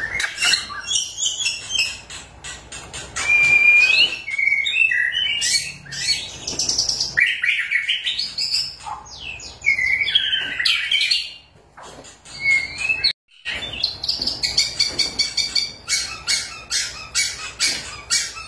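White-rumped shama in full song: a loud, varied string of whistled phrases, rising and falling glides and rapid chattering notes, breaking off briefly about two-thirds of the way through.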